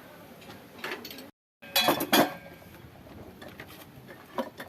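Metal tools and tractor parts clinking and clanking as they are handled, with the loudest run of sharp clanks about two seconds in. The sound cuts out completely for a moment just before those clanks.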